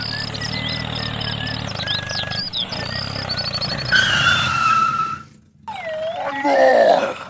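A mini tractor engine running steadily, with rapid high chirps over it; about four seconds in a longer falling tone sounds. The engine cuts off suddenly at about five and a half seconds, and a wavering pitched call follows near the end.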